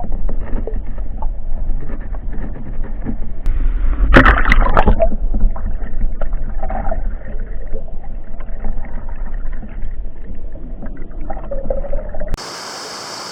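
Mountain stream water heard through an underwater camera: a muffled low rushing with bubbling and small knocks, and a louder splashing burst about four seconds in.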